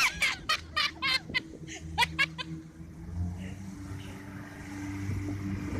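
Small boat's motor running steadily at a low hum. A string of quick laughs or squeals comes over it in the first two seconds or so.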